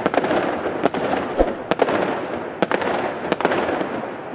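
Aerial fireworks bursting: about six sharp bangs over continuous crackling, one of them a deeper boom about a second and a half in, the crackle dying down toward the end.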